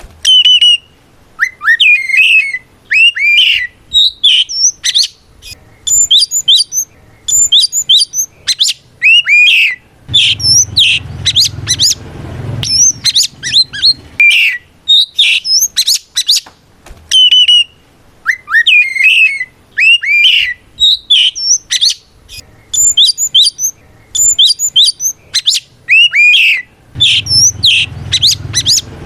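Oriental magpie-robin singing loudly in its full 'ngeplong' challenge song: varied rich whistles, upward and downward slides and rapid chirps in short phrases with brief pauses. The same song sequence repeats about every 17 seconds.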